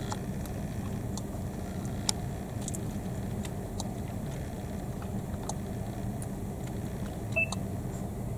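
Car engine idling with a steady low hum, heard from inside the car, with a few scattered light clicks and one brief high chirp near the end.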